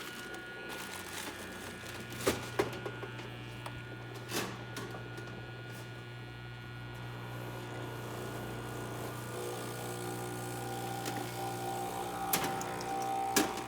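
Breville Oracle espresso machine's vibratory pump running steadily as it pulls a shot, a low hum with a few light clicks. Its tone changes and higher tones join in a few seconds before the end.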